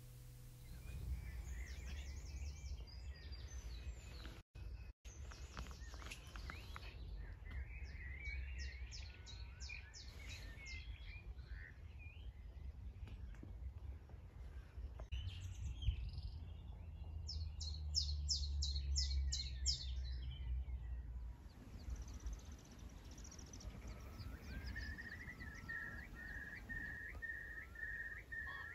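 Wild birds singing, with several bursts of rapid high trills over a steady low rumble. Near the end one bird repeats a short whistled note several times a second.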